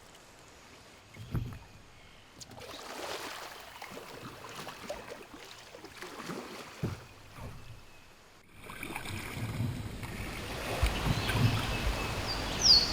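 Kayak on flat water, with a knock of the paddle or hull about a second in and then uneven splashing from paddle strokes. The sound changes abruptly past the middle to a steady rumble of wind on the microphone, with birds chirping near the end.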